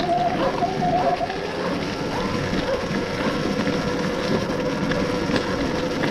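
Electric dirt bike riding along a forest track: a steady motor whine that drops in pitch about a second in, over a constant rushing noise of tyres and wind.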